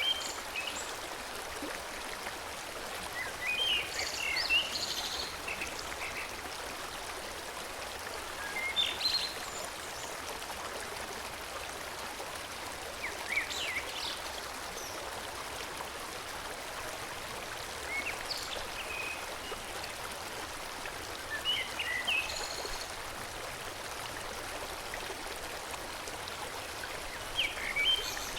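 Forest stream flowing steadily, with short bursts of birdsong chirps every four or five seconds.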